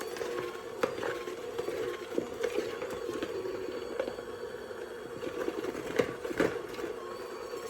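Electric mixer running with a steady hum while mixing bread dough, with irregular light knocks as the dough works in the bowl.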